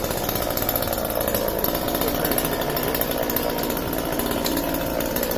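Chainsaw engine running steadily at an even level.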